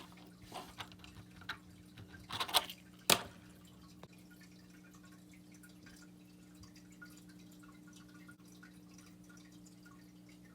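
A few light clicks and taps in the first three seconds, the kind a small wooden fingerboard makes when handled or set down, then only a faint steady hum.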